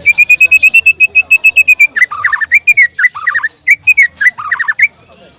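White-rumped shama (murai batu) singing loudly at close range. It opens with a fast run of about ten identical clear whistled notes a second for some two seconds, then breaks into varied, slurred whistled phrases.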